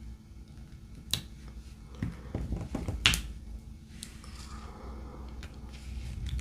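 Two sharp clicks about two seconds apart, with some low handling noise between them: hands working small craft items at a table.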